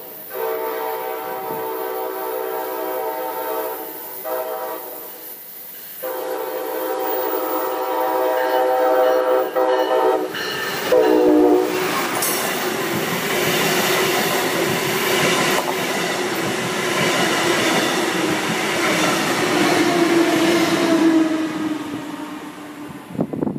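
Brightline passenger train, a Siemens Charger diesel-electric locomotive with Venture coaches, sounding its horn in long blasts as it approaches a grade crossing. The horn drops in pitch as the train goes by, followed by the loud rush of the train passing at speed with a slowly falling tone. The noise fades away near the end.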